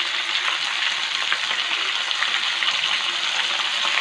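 Chicken pieces and sliced vegetables frying in oil in a nonstick pan: a steady sizzling hiss with fine crackles.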